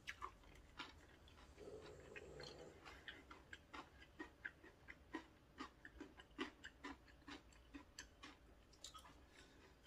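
Faint, close-miked chewing of a mouthful of cold noodles with crisp julienned vegetables: soft, wet mouth clicks and small crunches, two or three a second.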